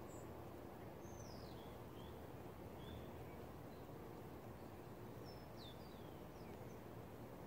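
Small birds calling faintly: a few thin, high chirps and down-slurred whistles scattered through, over a low steady outdoor background hiss.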